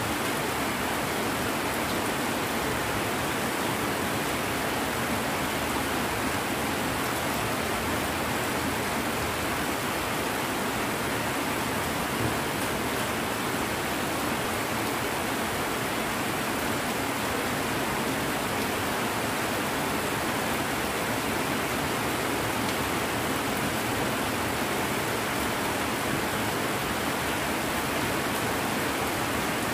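Heavy rain pouring steadily, a dense, even hiss of rain falling on the yard, plants and roofs.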